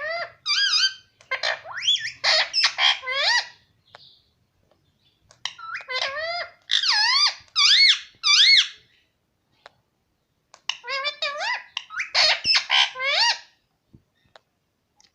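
Pet talking parrot calling in three bouts of shrill, squeaky chatter, each a run of quick rising and falling notes, with short pauses between them.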